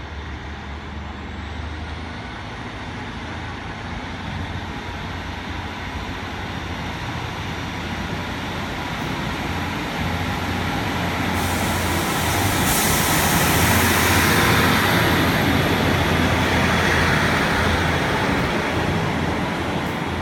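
Diesel passenger train pulling away from the platform, its engine running and growing louder as it accelerates past, loudest about two-thirds of the way through.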